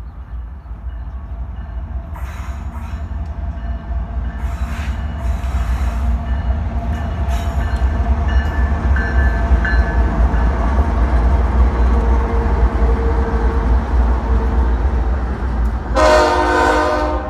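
Diesel freight locomotive approaching, its low engine rumble growing steadily louder. Near the end the locomotive's air horn sounds loudly, several notes at once as a chord.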